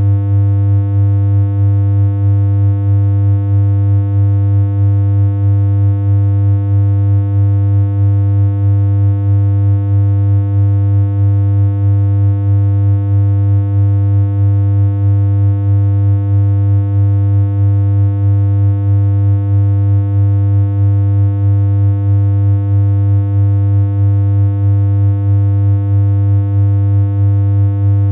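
A synthesized electronic hum: one low, steady tone held unchanged, with a stack of overtones and a slight regular wobble in loudness.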